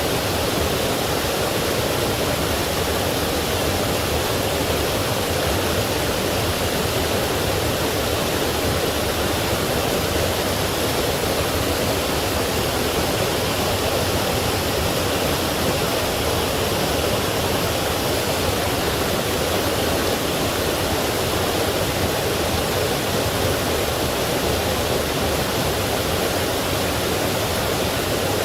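Forest stream rushing over small waterfalls, a steady, unbroken rush of water.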